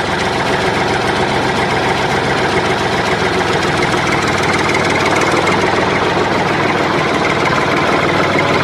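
A motor running steadily, with a dense, even buzz that grows slightly louder and then cuts off suddenly near the end.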